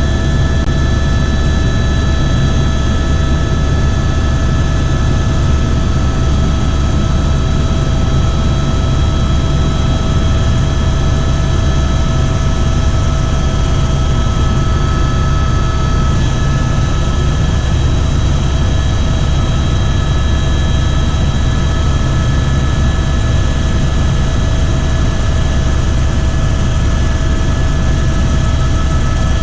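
Helicopter in flight: steady engine and rotor noise, a low drone with a constant high whine over it.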